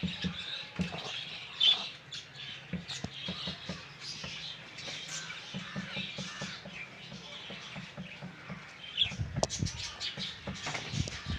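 Cockatiels chirping and calling over one another in a breeding colony, with a run of clicks and knocks near the end.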